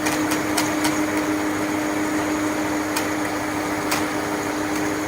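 Large mechanical log saw running through a big log: a steady hum with scattered sharp clicks.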